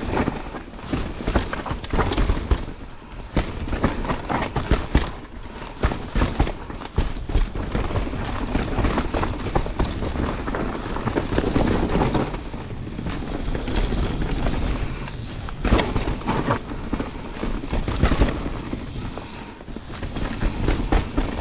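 Canyon Spectral 29 CFR mountain bike descending a dirt trail: tyres rolling over the ground with a steady stream of sharp knocks and rattles from the bike, and low rumble.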